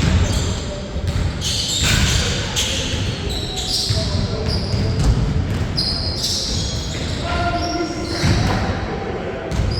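Basketball game on a court: a ball bouncing on the floor amid players' footfalls, with many short, high squeaks of shoes.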